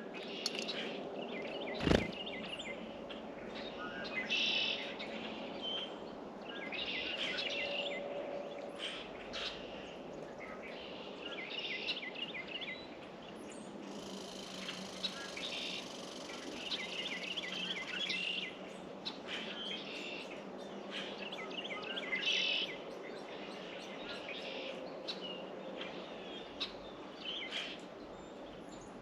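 Songbirds chirping and singing, short bursts of high chirps repeating every two to three seconds, with one sharp knock about two seconds in.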